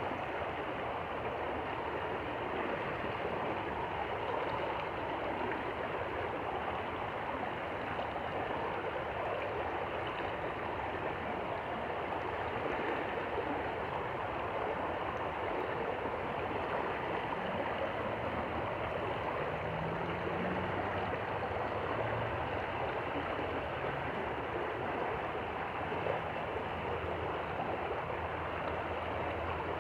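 Stream flowing and splashing steadily, an even rushing of water. A faint low hum rises under it in the middle of the stretch.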